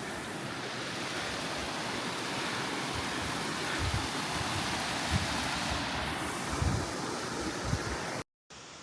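Rushing water of a mountain stream with small waterfalls: a steady, even hiss, broken by a few low thumps. It cuts out abruptly near the end.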